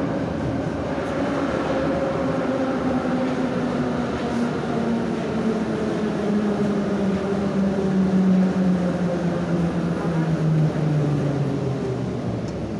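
Interior of a Moscow metro 81-717/714 'Nomernoy' train slowing down. The whine of its traction gear falls steadily in pitch over rumbling wheels as it brakes into a station, and settles near the end.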